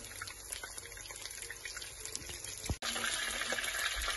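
Breaded chicken rolls shallow-frying in hot oil in a pan, a steady sizzle with small crackles. It cuts out for an instant a little under three seconds in and comes back louder and denser.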